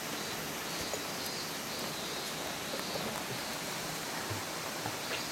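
Steady rush of flowing river water: an even hiss with a few faint ticks and splashes.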